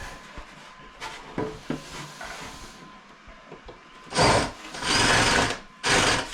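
Electric drill run in three short bursts starting about four seconds in, drilling into the wall to fit a TV wall mount, after a few light knocks and handling sounds.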